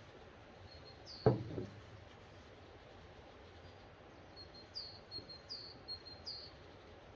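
A single dull knock about a second in, like a solid object struck or set down on wood, with a short low ring after it. Birds chirp in the background: short falling high notes, one near the knock and four more in a quick series later.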